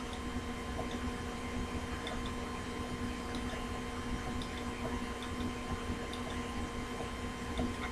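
Quiet room tone: a steady low electrical hum with a few faint, scattered ticks.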